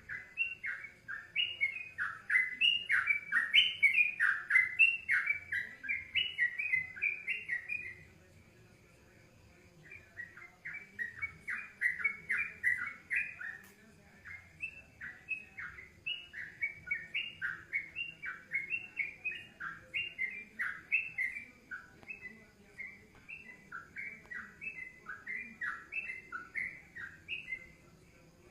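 A songbird singing in long runs of quick, sharp falling notes, about three to four a second, with a short break about a third of the way through.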